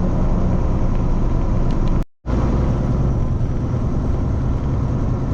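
Steady engine and road rumble inside the cab of a Kenworth T680 semi truck driving at highway speed, broken by a brief dropout to silence about two seconds in.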